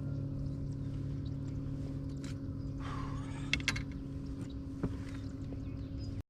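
Steady low hum of an electric trolling motor running on a fishing kayak, with a few light clicks and knocks on the hull or gear. The sound cuts off abruptly near the end.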